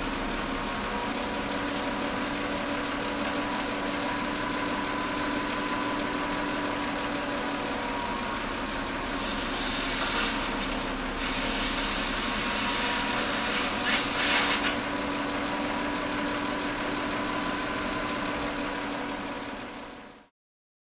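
Toyota 3.0 V6 engine idling steadily on a suspected blown head gasket, its cooling system full of flushing agent. Two short bursts of hissing come over it, one about halfway through and one a few seconds later.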